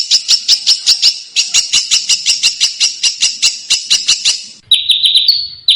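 Small songbird giving a dense, harsh series of rapid scratchy calls, about five a second, with a brief break about a second in. Near the end a different buzzy trill takes over, with thin high notes above it.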